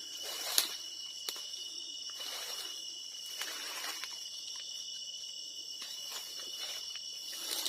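Steady high-pitched chorus of crickets and other insects, with a few sharp clicks, the loudest about half a second in, and patches of soft rustling.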